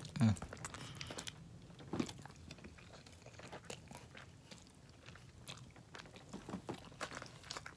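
A person chewing and biting food close to the microphone, with many small crunchy clicks and wet mouth noises scattered through, and a short hum of the voice at the very start.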